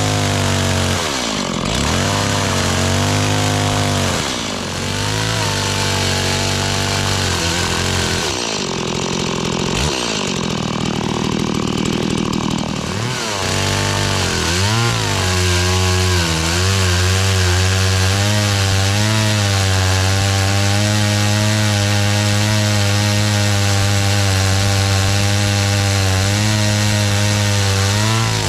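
Small two-stroke chainsaw running. It revs down and back up several times in the first half, then runs steadily at high speed from about halfway.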